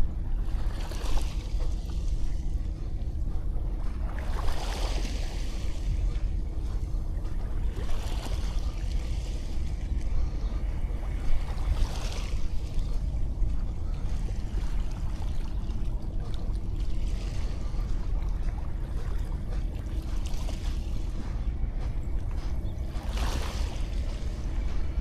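Small sea waves washing onto the beach, a wash swelling up every few seconds, over a steady low rumble of wind on the microphone.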